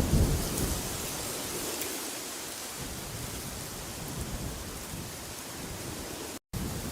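Steady wind noise, an even hiss, with a low rumbling gust at the start. The sound cuts out completely for a split second near the end.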